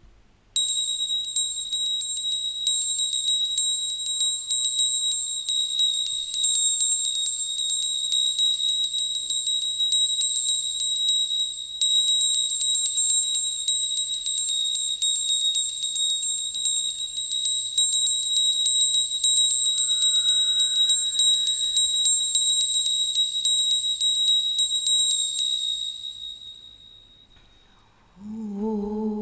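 A small high-pitched hand bell rung continuously, its clapper striking many times a second on one steady ringing tone for about 25 seconds, then dying away near the end.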